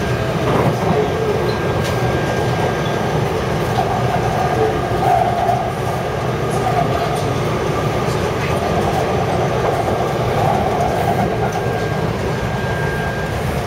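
Taipei Metro C371-type train running along the line: a steady, continuous rumble of wheels and running gear, with a faint tone and some mid-pitched whines that come and go.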